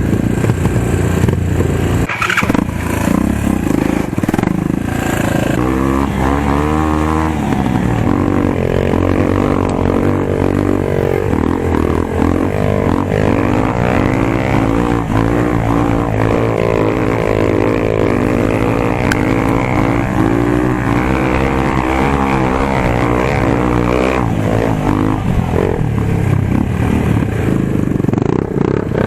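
Motorcycle engine ridden hard, its pitch climbing and dropping again and again as it is revved up through the gears and eased off.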